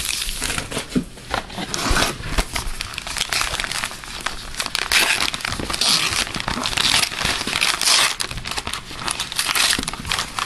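Crinkling and tearing of a hockey card pack wrapper as it is opened and handled, a dense run of small crackles.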